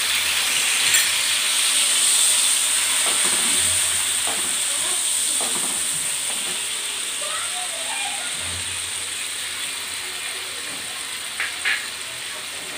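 Mustard-and-poppy-seed paste thinned with water sizzling in hot mustard oil in a pan, a steady hiss that slowly dies down as it cooks. A couple of light clicks of the metal spatula on the pan near the end.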